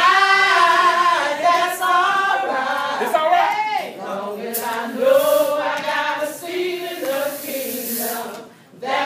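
A choir singing a gospel song, several voices together on held, gliding notes, briefly dropping away near the end.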